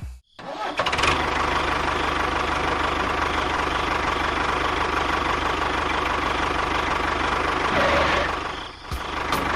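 Small motor of a miniature DIY tractor running steadily with a fast, even chatter, cutting out briefly near the end and starting again.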